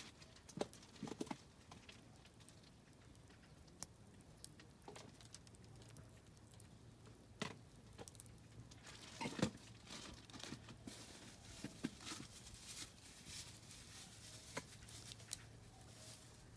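Oak firewood crackling in a campfire: scattered sharp pops and snaps, with a louder cluster of crackles about nine seconds in.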